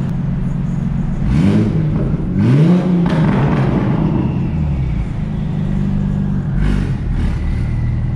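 Turbocharged straight-six of an 800 hp big-turbo BMW 335i heard from inside the cabin, revving up twice, about one and two and a half seconds in, with a short rush of noise at each rev, then running steadily at low revs.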